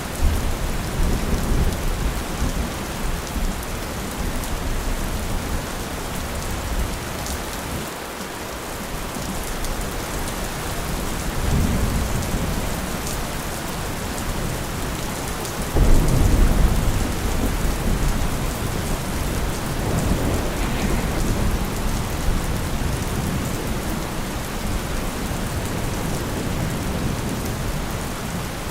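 Steady rain falling, with low rolls of thunder: one rumbles in at the start, a softer one about 12 seconds in, and the loudest breaks suddenly just past the middle and rolls away over several seconds.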